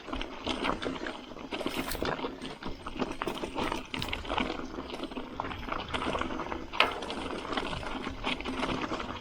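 Single-speed gravel bike riding over rough double-track: a dense, irregular clatter of the tyres on loose stones and the bike rattling.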